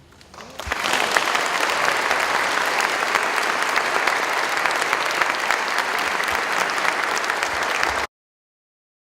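Audience applause breaking out as a piece of music ends and building within the first second, then steady clapping until it cuts off abruptly near the end.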